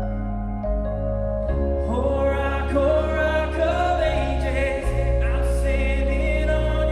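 Live worship band playing a slow song with sustained low notes. Singing comes in about a second and a half in and carries on.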